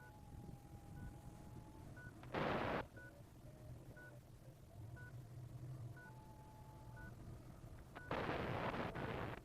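Paragliding variometer beeping in short, evenly spaced tones about once a second, with a held lower tone at the start and again about six seconds in. Wind rumbles on the microphone, with two loud gusts of wind noise, a brief one about two and a half seconds in and a longer one near the end.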